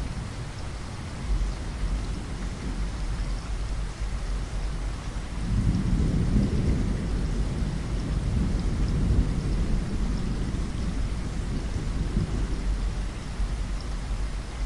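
Steady rain pattering against a window, with a low rolling rumble of thunder swelling about five seconds in and dying away over several seconds.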